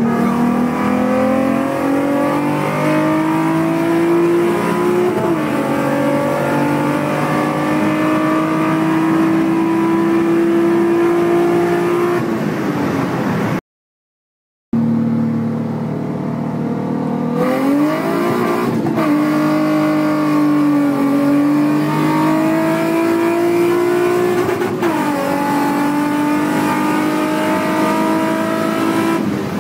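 VQ35 V6 of an engine-swapped Nissan Sentra at full throttle, heard from inside the car. Its pitch climbs steadily through the revs with a drop at each upshift. The sound cuts out for about a second in the middle, then a second hard pull climbs and shifts twice.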